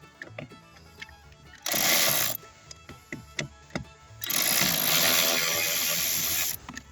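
Cordless power ratchet running in two bursts, a short one about two seconds in and a longer one of about two seconds later, backing out a blower-motor mounting screw. Light background music plays underneath.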